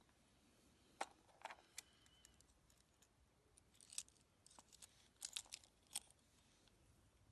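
Faint, scattered sharp clicks and light rattles of small hard parts being handled, from working on a car remote key fob. A few clicks about a second in, more near four seconds, and a cluster around five to six seconds.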